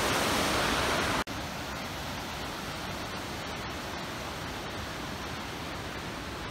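A raging waterfall's steady rush of water. It cuts out for an instant about a second in, then resumes a little quieter.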